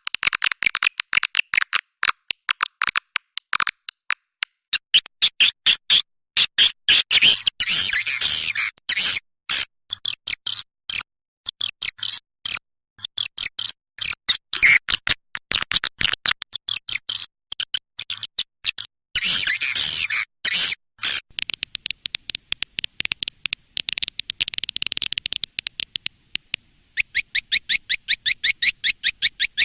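Swiftlet calls: rapid, high twittering and clicking chirps in dense bursts with short breaks, looped and spliced as a lure call for a swiftlet house.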